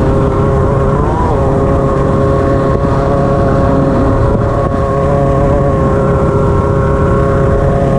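Off-road race car's engine running at steady revs, with a constant low rumble beneath it. The pitch dips and comes back up briefly about a second in.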